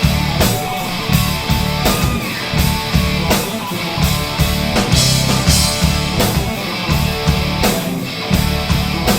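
Rock band playing with electric guitar and drum kit, a steady drum beat under the guitar and no singing.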